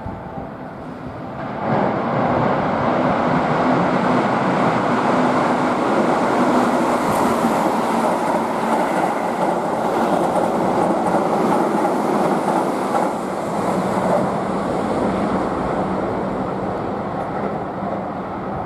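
Keihan Main Line electric train running past the station platform: wheel and track noise with some clatter rises sharply about two seconds in, stays loud for about twelve seconds, then fades.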